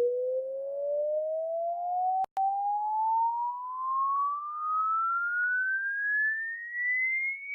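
Pure sine test tone sweeping steadily upward in pitch, from a low hum to a high whistle, the rising frequency sweep of an online hearing test. A brief click-like break cuts it a little over two seconds in.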